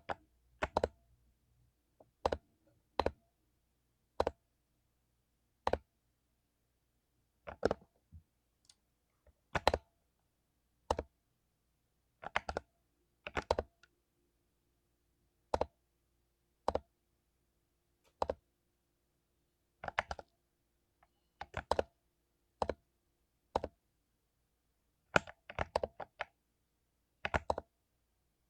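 Keys on a mechanical keyboard with lubed Cherry MX Silver linear switches being pressed one at a time: slow, irregular keystrokes, mostly a second or two apart, now and then two to four in quick succession.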